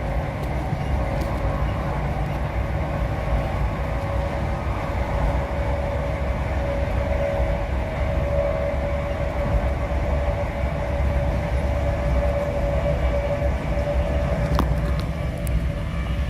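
Passenger train running, heard from inside the carriage: a steady low rumble with a constant whine, and a few faint clicks near the end.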